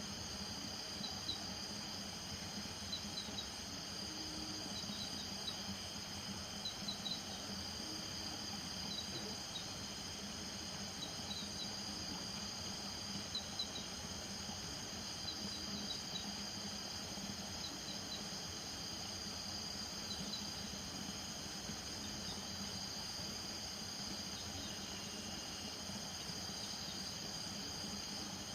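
Night chorus of crickets and frogs. Steady high trilling runs throughout, with short double chirps repeating about every second and a half and a low steady drone underneath.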